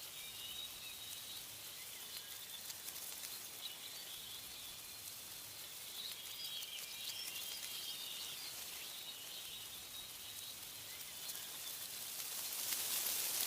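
Wind rustling through tree leaves as a steady high hiss, with small birds chirping and twittering in short, high calls, most busily near the start and in the middle. A gust swells the rustling near the end.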